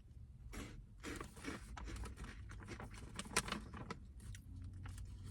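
A person chewing crunchy puffed snacks made of corn, rice and cauliflower: faint, irregular crunching and crackling.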